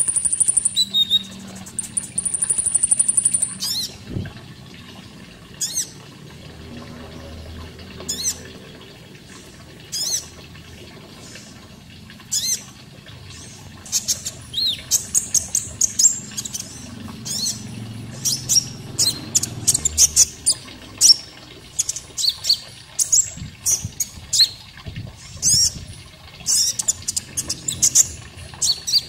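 Olive-backed sunbird (konin) singing: a high, fast buzzing trill in the first few seconds, then a string of short, sharp high chirps and twitters that come thicker about halfway through.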